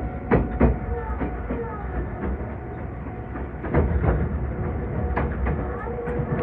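Meitetsu 2000 series μSKY electric train running, heard from inside the car: a steady rumble and whine with irregular clicks of the wheels over rail joints.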